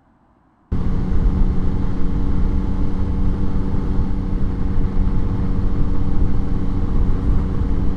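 Motorcycle running steadily at road speed: an even engine drone under rushing wind noise on the microphone, cutting in abruptly about a second in after faint quiet.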